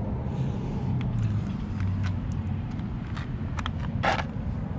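Chevrolet 350 V8 idling steadily, with a few light clicks and a short knock about four seconds in.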